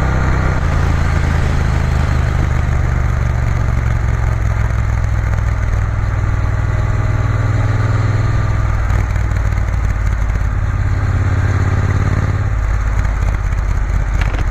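Triumph Bonneville T120's parallel-twin engine running while riding, under a steady rush of wind noise. The engine note shifts just after the start and drops noticeably near the end.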